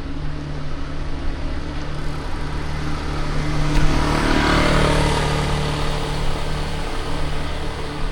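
City street traffic heard from a moving bicycle: a steady engine hum, with one motor vehicle growing louder and passing close about halfway through, then fading.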